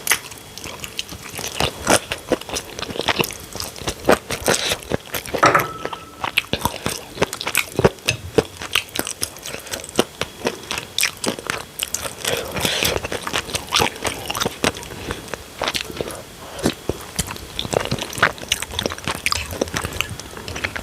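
Close-miked eating sounds: biting and chewing with many sharp, irregular crunches and mouth clicks.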